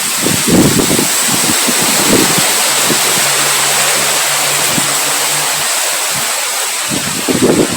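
Heavy rain falling in a steady dense hiss, with gusts of wind rumbling low underneath.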